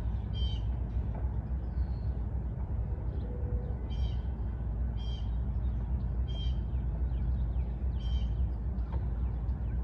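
A bird giving short calls over and over, about every second or so, over a steady low rumble.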